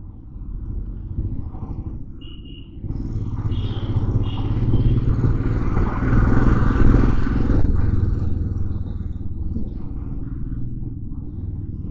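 Motorcycle engine and road noise while riding in city traffic. It grows louder from about three seconds in, is loudest around the middle, then eases off. A few brief high-pitched tones sound early on.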